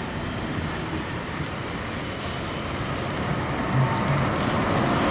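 Intercity bus driving up past, its engine and tyre noise growing louder toward the end, over steady traffic noise.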